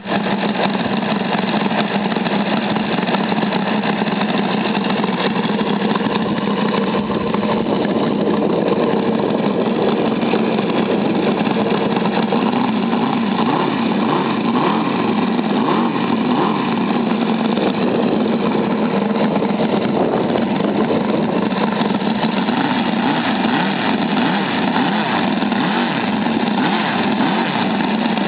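ASP 400 five-cylinder radial engine running steadily at an even speed during its break-in run.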